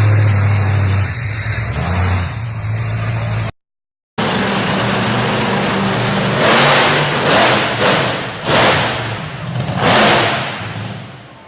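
Monster truck engine running loud, with a short silent gap about three and a half seconds in. It is followed by several loud revs in quick succession that fade out near the end.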